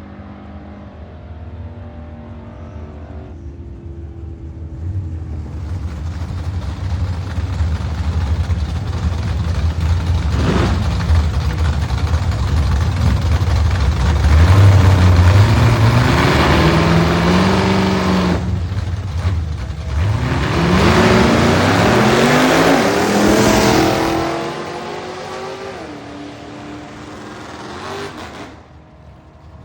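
Nostalgia drag car making a run. The engine builds loudly, its pitch climbs and drops back twice at gear changes, then the sound fades away.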